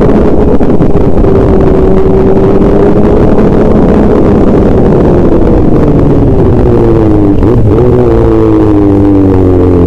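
A vehicle engine running loud and distorted, its pitch drifting and sinking slowly over the last few seconds.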